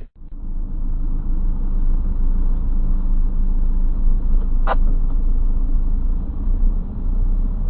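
Steady low rumble of a car driving: engine and road noise. One short, sharp click about four and a half seconds in.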